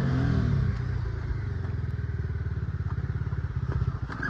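A vehicle engine running steadily with a fast, even low pulse, with a few brief knocks near the end.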